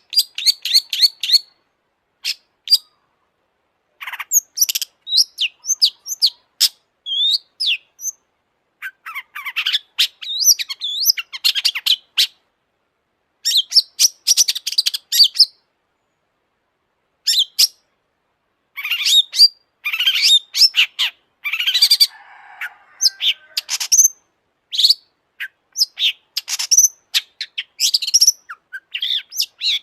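Long-tailed shrike (cendet) singing vigorously in phrases of rapid, sharp, high chattering notes, broken by short pauses, with a lower, harsher stretch about two-thirds of the way through.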